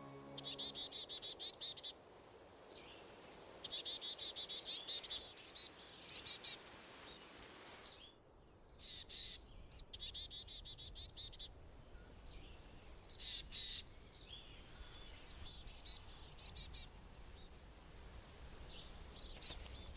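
Small songbirds singing at dawn: three fast, rapid trills, each lasting about a second and a half, with many short high chirps and whistles in between.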